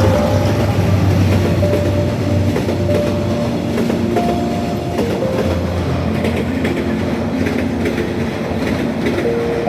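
Passenger train running on the rails, with a steady low rumble and rail joints clicking.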